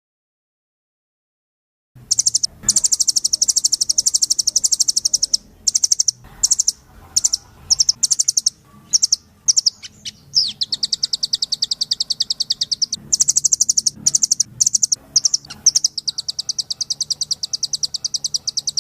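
A rambatan (velvet-fronted nuthatch) singing hard in long, rapid trills of high, sharp chips. The song starts about two seconds in after a silent gap. It breaks into short separate bursts midway, then runs in long trills again to the end.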